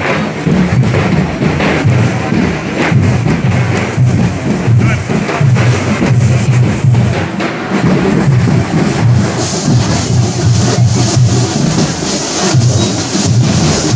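Festival drum troupe playing loud, dense drumming with deep, heavy beats; a brighter, hissing high layer joins about nine seconds in.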